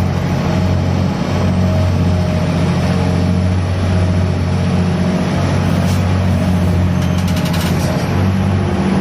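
Diesel engine of a gut ship running steadily under load during grab-bucket unloading, with a steady low drone. A sharp click comes about six seconds in, and a short run of clicks or knocks follows about a second later.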